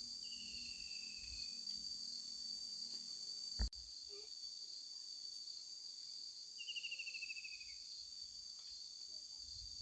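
Steady, high-pitched chorus of insects, with two short falling trills about a second in and near seven seconds, and a single sharp knock a little past three and a half seconds.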